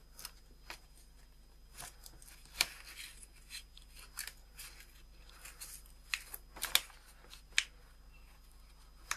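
Sheet paper of a folded paper airplane being handled, crackling and rustling in short irregular bursts as a bent paperclip is worked through a hole in its nose. The sharpest crackles come about two and a half seconds in and twice more late on.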